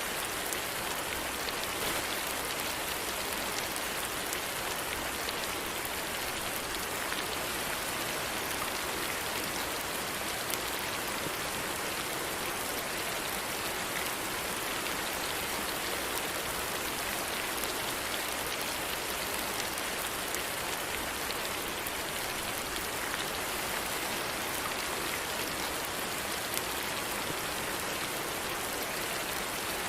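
Steady rain falling: an even hiss of rain with faint scattered drop ticks, unchanging throughout.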